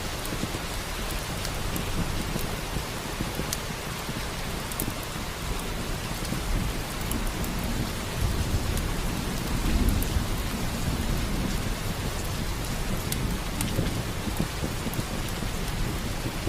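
Steady rain, with a low rumble of thunder swelling about halfway through and scattered sharp crackles from a wood fire.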